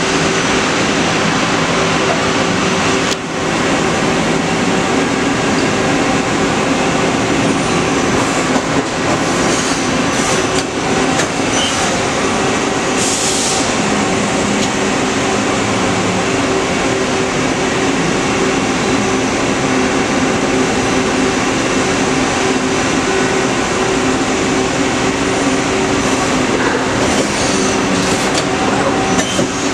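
Mori Seiki SL-250B CNC lathe running under power: a loud, steady machine noise with a constant hum, with a few short hisses partway through and near the end.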